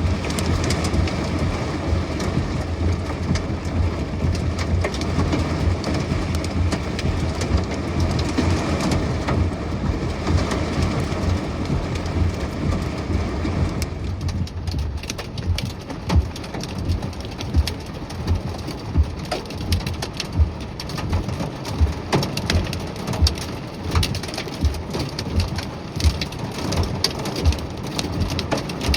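Heavy rain beating down, with a steady low rumble under it in the first half. About halfway through the sound changes suddenly to a patter of many sharp separate drop impacts on a hard surface.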